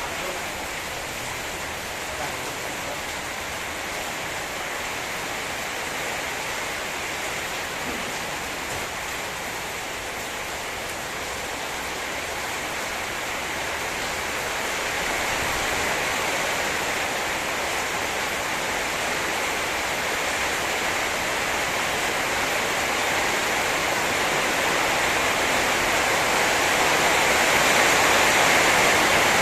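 Heavy rain pouring down steadily in a storm, getting louder in the second half.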